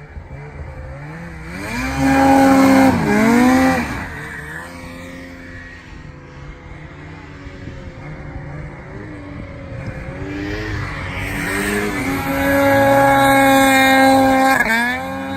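Two-stroke snowmobile engine revving hard in bursts. A loud climb in pitch about two seconds in drops off after a couple of seconds, then lighter throttle follows. Near the end comes a long high-revving pull that falls away as the throttle comes off.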